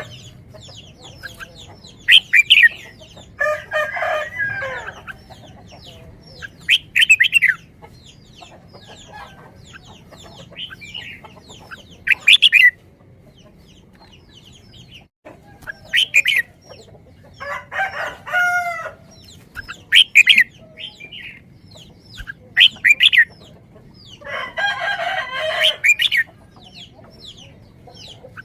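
Birds calling: short, sharp, high calls every few seconds, with three longer, lower, many-toned calls in between.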